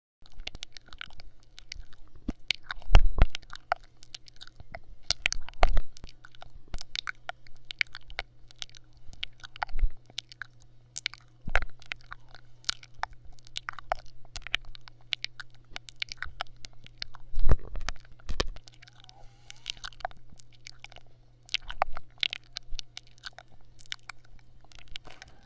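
Dense, irregular crackling and crunching very close to the microphone, with a louder crunch every few seconds, over a faint steady low hum.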